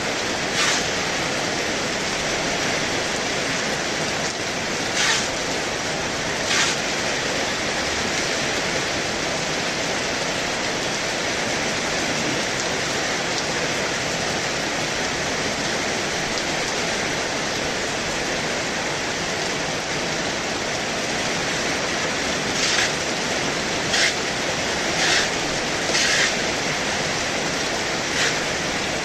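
Heavy rain falling in a steady hiss, with a few brief, louder splats of drops landing close by, mostly near the start and in the last few seconds.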